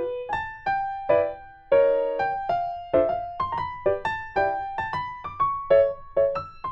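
Background piano music: a steady run of single struck notes, several a second, each ringing and fading before the next.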